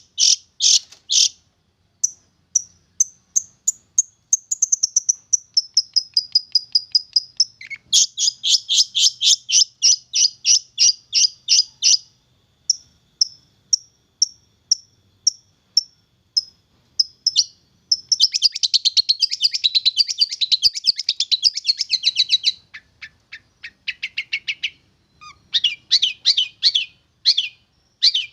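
A young long-tailed shrike singing: runs of fast, high chattering notes alternating with series of separate short notes, repeated throughout.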